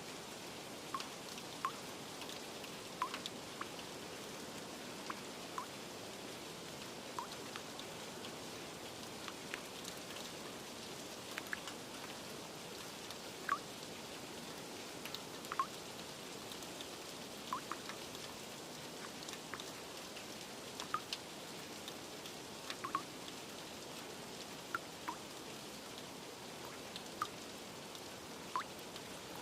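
Steady rain with scattered single drips, short plinking drops landing irregularly about once or twice a second over an even rain hiss.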